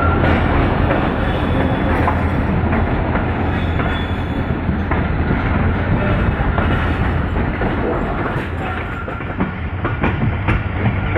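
Passenger train coach rolling over the rails, heard from an open coach window: a steady rumble with the clickety-clack of wheels over rail joints. It gets a little quieter near the end as the train slows into a station, with a faint wheel squeal.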